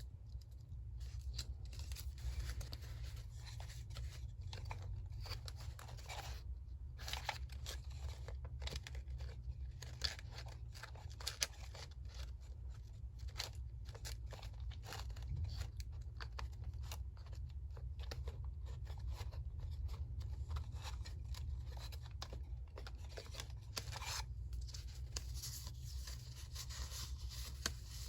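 Paper being worked by hand for a journal collage: a long run of short crisp crackles and rustles of paper, over a steady low hum.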